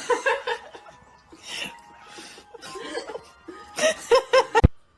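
A person laughing over background music, ending in a quick run of "ha-ha" bursts near the end, then cut off suddenly with a click.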